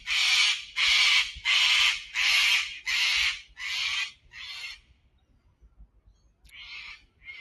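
Sulphur-crested cockatoo screeching loudly: a run of about seven harsh squawks in quick succession, a short pause, then two shorter squawks near the end.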